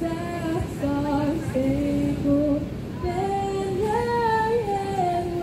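A woman's voice singing a slow melody in long held notes, stepping between pitches and rising to higher notes about two-thirds of the way through before settling on a long held note.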